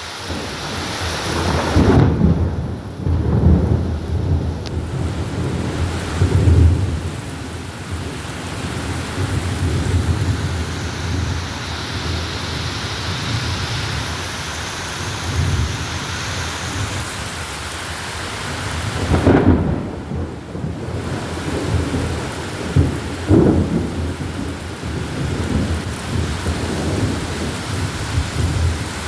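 Torrential rain pouring down steadily, with low rumbling swells several times, the loudest about two, six and nineteen seconds in.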